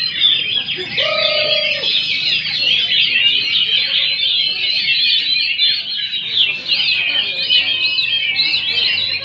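Many caged songbirds singing at once: a dense, continuous chorus of fast overlapping chirps and trills.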